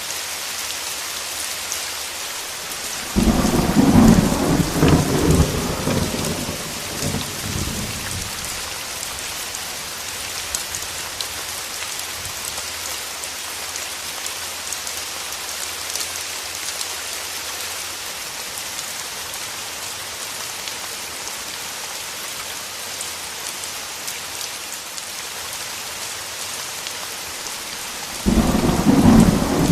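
Steady heavy rain with two rolls of thunder. The first starts abruptly about three seconds in and rumbles for around five seconds; the second breaks near the end.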